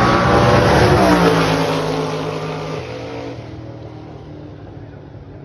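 A car's engine running hard at high revs. Its note drops about a second in, then fades steadily over the next few seconds as the car pulls away.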